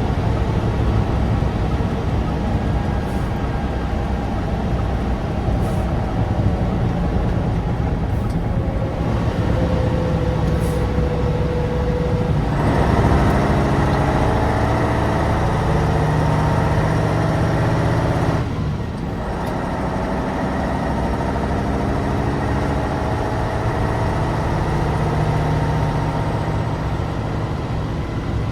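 Tatra 815's naturally aspirated air-cooled V10 engine running as the truck drives, its revs climbing under load. The engine sound drops briefly about two-thirds of the way through, then the revs climb again.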